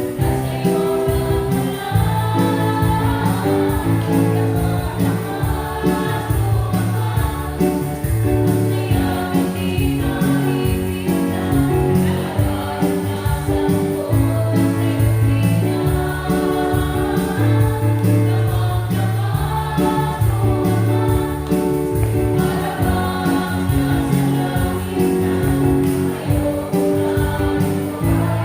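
Gospel song with choir singing over a steady bass line and regular beat.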